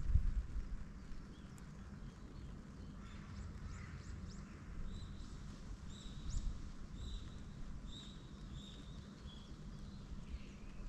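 Small birds chirping at dawn, short high calls repeated about twice a second from about five seconds in, over a steady low rumble.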